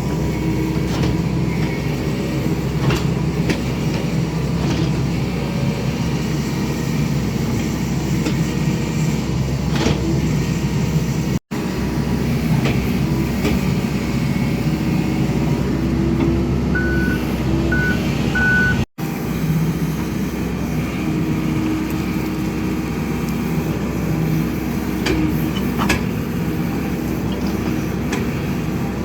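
Diesel excavator engine running steadily under load while backfilling a trench, with scattered knocks and three short beeps about two-thirds of the way in.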